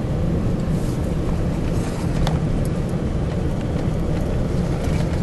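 Steady engine and road noise heard from inside a four-wheel drive's cabin, with a few faint knocks.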